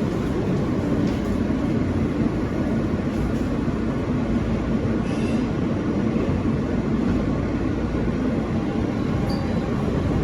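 Subway train running through a tunnel, heard from inside the car: a steady rumble of steel wheels on the rails. There is a brief faint wheel squeal about five seconds in.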